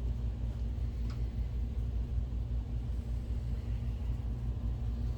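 Steady low hum of an Optoma GT1080 DLP projector's cooling fans as it starts up, with a faint click about a second in.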